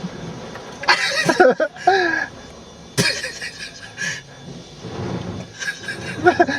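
Short bursts of voices inside a car, with a single sharp knock about three seconds in.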